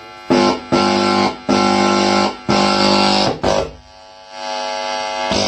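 Guitar music played loudly through an Ahuja DPA 570 amplifier and its speaker as a test signal, with a run of strong strummed chords, a short drop about four seconds in, then sustained notes: the amplifier's output is back after its 3055 output transistors were replaced.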